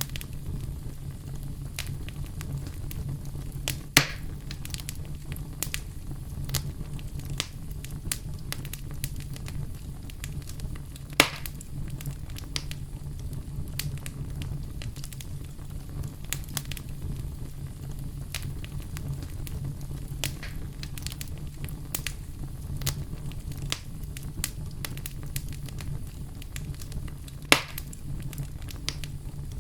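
Wood fire burning in a fireplace: a steady low rumble with constant small crackles, and three sharp pops from the logs, about four, eleven and twenty-seven seconds in.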